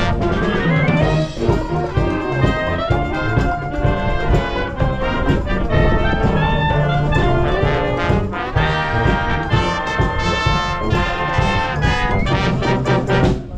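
High school wind band playing live in a samba style, trumpets and trombones carrying the tune over a steady beat. Wind buffeting the microphone adds a heavy rumble underneath.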